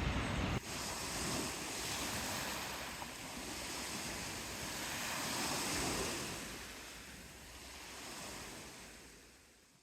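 Sea waves washing onto the shore, a steady rush that swells and eases, with wind buffeting the microphone in the first moment; the sound fades out near the end.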